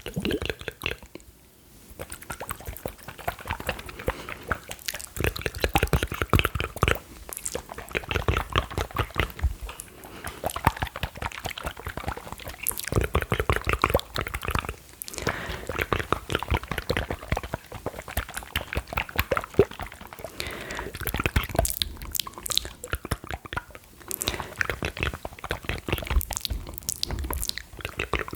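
Close-up wet, sticky mouth sounds: rapid clicks, smacks and gulping 'glu glu' noises, mixed with liquid sounds from small glass vials.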